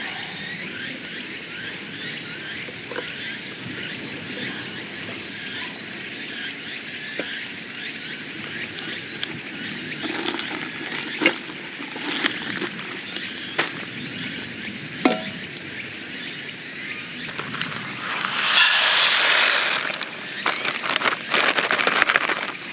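Outdoor summer forest ambience with a steady high hum and faint chirping, a few light knocks of camp gear in the middle, and near the end about two seconds of loud rushing, splashing noise, like water being poured out.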